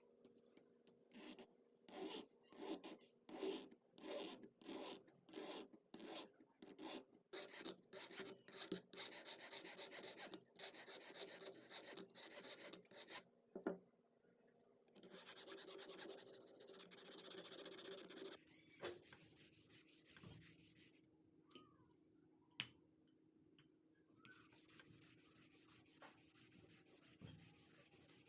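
Abrasive hand rubbing on old rusty hand pruners. It starts as quick back-and-forth strokes, about two a second, and later turns into longer continuous rubbing passes with pauses between them.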